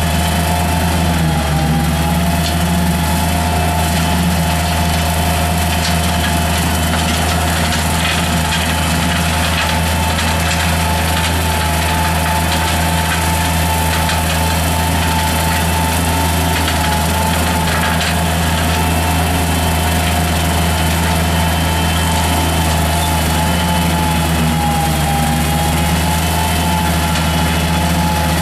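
Mini skid steer loader's engine running steadily, driving a hydraulic brush cutter attachment: an even low hum with a high whining tone above it that wavers slightly.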